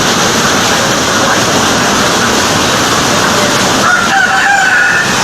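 Strong typhoon wind and rain making a steady, loud rushing noise. About four seconds in, a brief high call, like a rooster crowing, rises over it.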